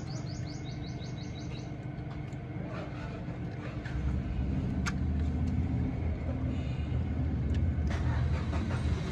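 A vehicle engine running with a steady low hum that grows louder about four seconds in. A bird's quick chirps sound over it in the first two seconds.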